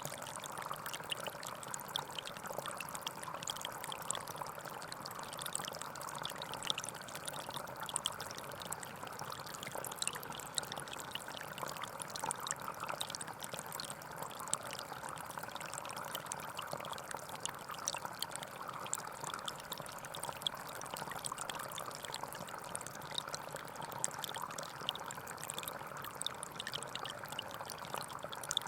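Gentle forest stream flowing steadily, a constant trickling and splashing of water.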